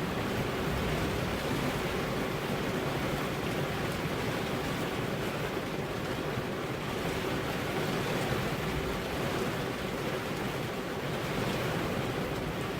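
Steady rain falling on a car's glass, an even wash of noise with no distinct drops or thunder standing out.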